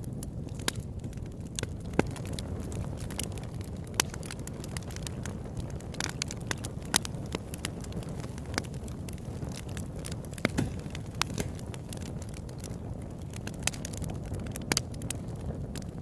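Campfire burning with a steady low rumble and irregular sharp crackles and pops, a few of them louder snaps.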